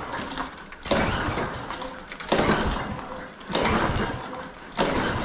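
Walk-behind lawn mower's recoil starter pulled about four times in a row, a surge every second and a bit as the cord is yanked and the small engine turns over without catching; it won't fire even after priming, which the owner blames on bad fuel.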